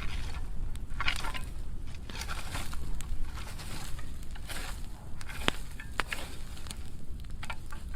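Burn pile of dry pruning wood burning, crackling irregularly with scattered sharp pops over a low rumble.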